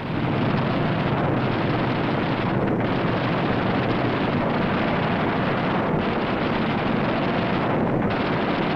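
Steady, unbroken roar of piston aircraft engines, heard through an old film soundtrack with the top end cut off.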